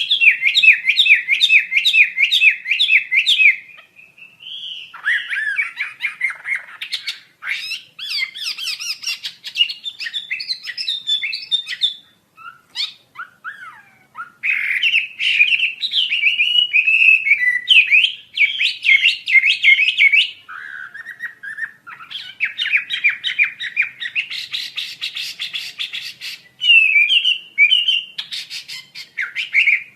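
Hwamei (wambi) singing a long, varied song of rapid repeated whistled notes, in phrases of a few seconds broken by short pauses.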